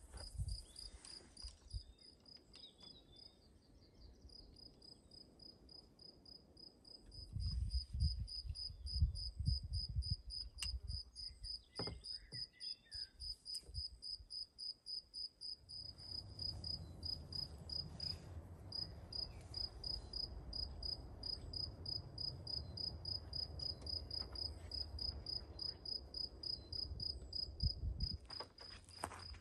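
A cricket chirping in a fast, even, high-pitched pulse, about four or five chirps a second, pausing briefly about halfway through. A low rumble comes and goes underneath it.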